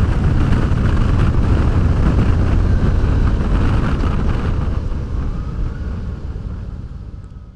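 Honda Deauville V-twin motorcycle riding along, heard as a steady engine and wind rush on a helmet camera. The sound fades out over the last couple of seconds.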